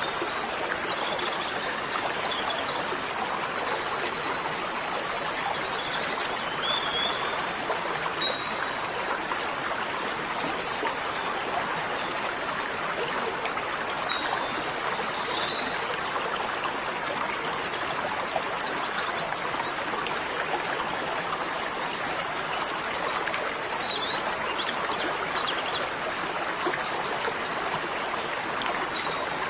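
Steady outdoor ambience of running water with birds chirping now and then.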